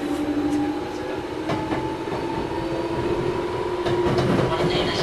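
Inside a Toyohashi Railway 1800 series motor car, a resistance-controlled ex-Tokyu 7200 series train running on the line: its traction motor and gear whine rises slowly in pitch as the train gathers speed. The wheels knock now and then over rail joints, under a steady running rumble.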